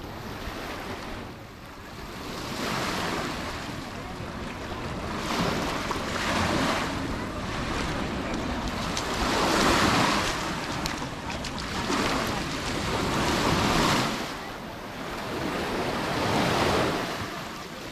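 Sea waves breaking and washing up the beach, surging in repeated swells every few seconds, with some wind on the microphone.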